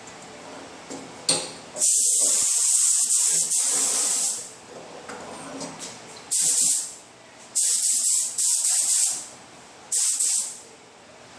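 Paint spray gun spraying epoxy primer on a car fender in four on-off bursts of hissing air and paint: one long pass of about two and a half seconds, then three shorter ones. A click comes just before the first burst.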